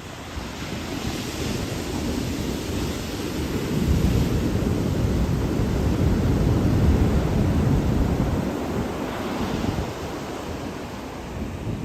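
Ocean surf washing onto a beach, swelling louder in the middle and easing off near the end, with wind rumbling on the microphone.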